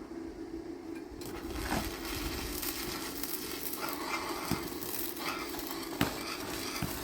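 Electric arc welding crackling and sizzling, starting about a second in over a steady low hum, with one sharp click near the end.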